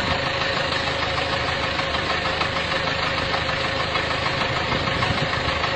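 A vehicle's engine running steadily at idle, with a faint steady whine above it.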